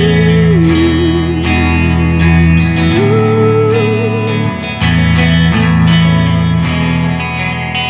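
Instrumental break in a solo song: guitar playing with a held, wavering lead melody over it that steps down in pitch about half a second in and back up about three seconds in.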